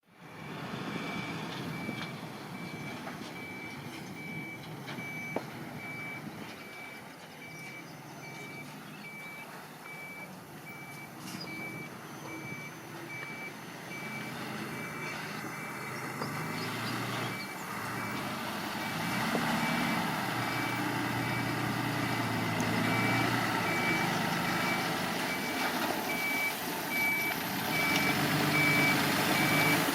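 Backup alarm of a working earthmover beeping at one steady pitch, over a diesel engine that grows louder in the second half.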